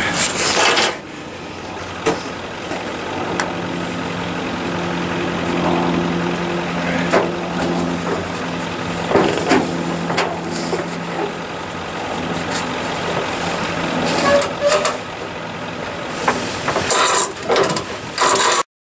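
A motor running with a steady low hum, joined by scattered clanks and knocks, while a broken-down pickup truck is pulled up onto a car trailer. The sound cuts off abruptly near the end.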